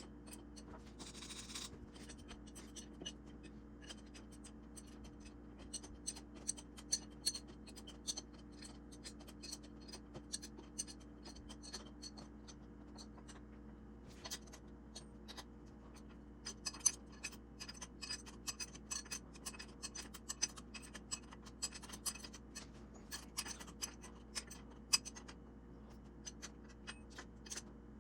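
Irregular small clicks, taps and light scraping from hands working with tools and metal parts, coming in clusters, over a steady low hum.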